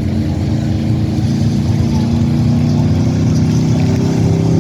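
Engine of a truck-pull or tractor-pull vehicle running loud, its pitch rising a little from about three seconds in as it revs up.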